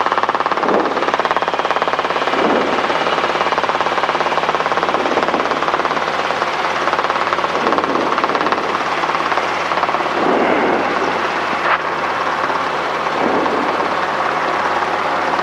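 Robinson R22 helicopter in flight, heard from inside the cockpit: a steady, loud drone of rotor and piston engine with a fast, even beat.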